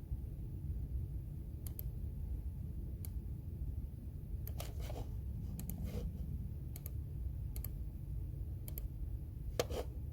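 Computer keyboard keys tapped sparsely and irregularly: scattered single clicks and short clusters with pauses between them, the loudest cluster near the end, over a steady low room hum.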